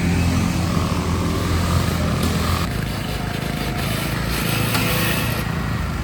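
Small engine of a racing lawn mower running, its note changing and softening about two and a half seconds in.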